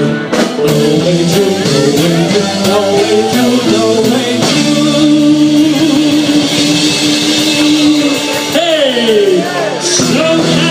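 Live rock band playing an instrumental passage: a quick melodic lead line over the band, then a long held note about halfway through and a note sliding down near the end.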